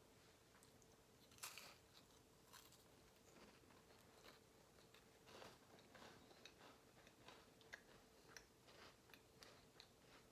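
Faint mouth sounds of biting into and chewing a Club cracker topped with shredded cheddar jack cheese: a sharper crunch about a second and a half in, then many small scattered crunches.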